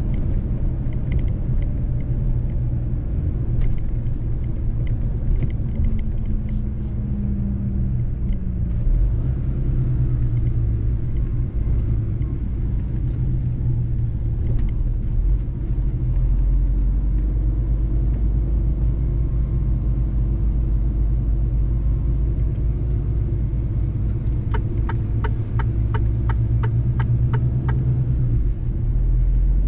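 Mercedes-Benz truck on the road: steady low engine and road rumble. Near the end comes a run of about ten evenly spaced clicks, two or three a second.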